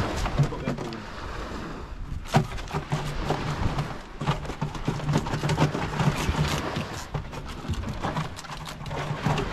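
Rain falling, with scattered knocks and taps and a low drone that comes and goes.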